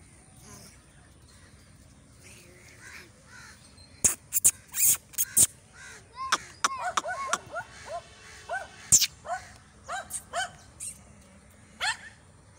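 Birds calling: a quick run of short calls, each rising and falling in pitch, from about six seconds in. A few loud sharp clicks come just before them.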